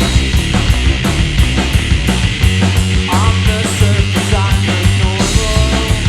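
Live punk-rock trio of electric guitar, bass guitar and drums playing an instrumental passage, with fast, busy drumming and the guitar bending notes in a lead line through the middle.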